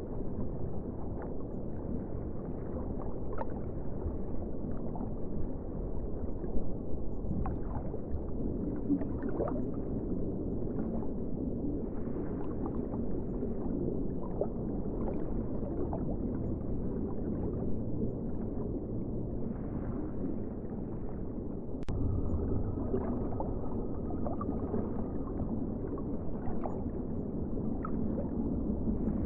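Steady, muffled ocean water sound with scattered small gurgles, and one sharp click about 22 seconds in.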